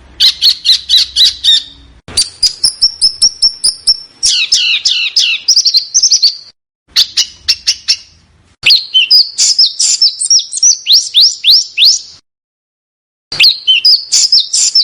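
Small songbird singing loud bursts of rapid, sharp, high chirps and down-slurred notes, several a second, with short pauses between phrases.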